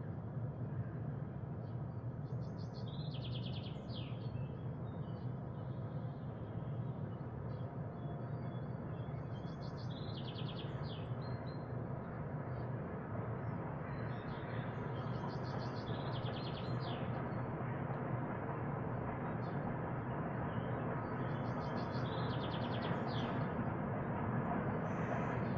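A songbird singing the same short phrase four times, several seconds apart: a quick run of repeated high notes ending in a brief flourish. A steady background rumble runs under it.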